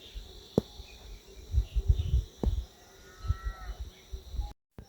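Rural outdoor ambience with steady insect chirring, irregular low thumps and a couple of sharp clicks. A brief pitched animal call sounds a little past three seconds in. Near the end the sound cuts off abruptly.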